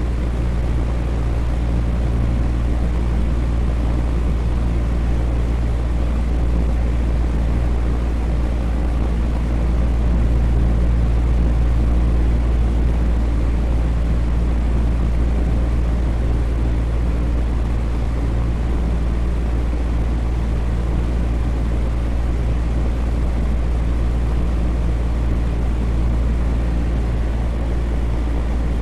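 Electric fan running steadily: a constant rush of air over a deep, even hum, with no change in speed.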